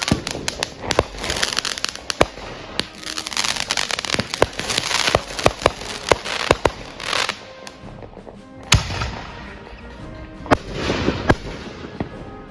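Consumer fireworks going off: rapid sharp bangs and crackling for about seven seconds, thinning out to a few single loud reports near the end.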